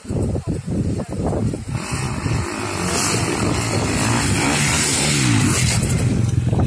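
KTM 250 dirt bike engine revving as the bike rides past, getting louder about two seconds in, its pitch rising and falling near the end.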